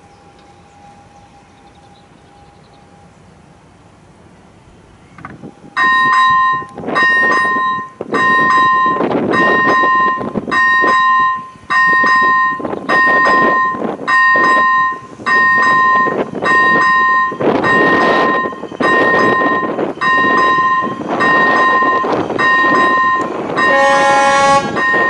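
A loud pitched signal tone sounding in pulses of just under a second, about once a second, starting about six seconds in. Just before the end a different, fuller horn-like chord sounds once.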